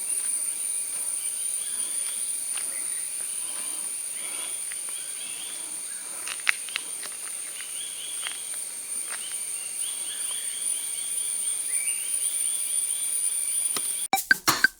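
Forest ambience: a steady high-pitched insect drone with bird calls repeating in short series over it. Near the end, percussive music cuts in abruptly.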